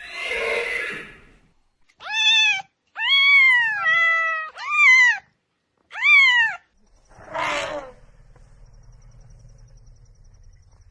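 Domestic cat meowing about five times in a row, each meow rising and then falling in pitch. The meows are framed by a short rough, hissy sound at the start and another near the end.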